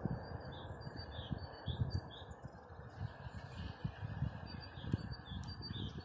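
Small songbirds chirping, short high notes repeated about twice a second, over a steady rushing noise and uneven low rumbles.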